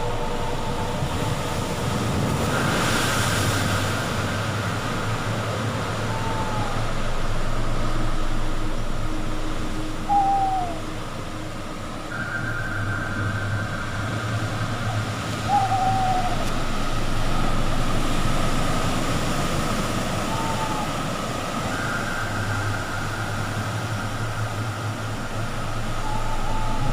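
Ocean surf washing in with slow swells. Short falling hoot-like calls come about every four to five seconds, over a steady hum that comes and goes.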